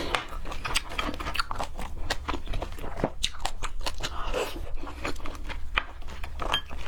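A person chewing and biting raw seafood, with many irregular crunchy, wet clicks coming several times a second.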